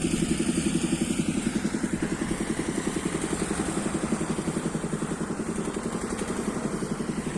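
A construction-site engine running steadily with a fast, even thumping pulse, about eight to nine beats a second.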